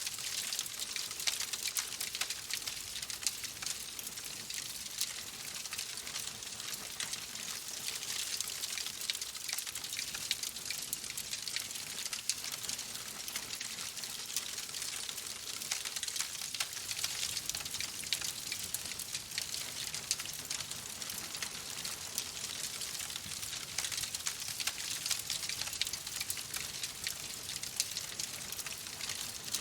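Wood fire crackling in a fireplace: a steady hiss full of many small, quick pops.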